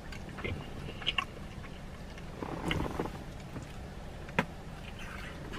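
A person eating a burrito with a thick flour tortilla: quiet chewing and a bite, with a few faint clicks and mouth sounds and one sharper click about four and a half seconds in, over a low steady hum in the car cabin.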